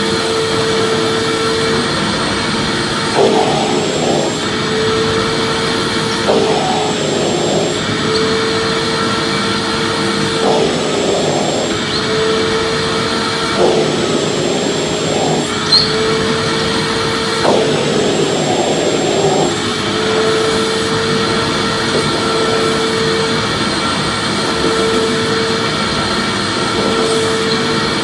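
Vacuum cleaner running continuously with a steady whooshing hum; its pitch dips and wavers briefly every three to four seconds, as its airflow changes.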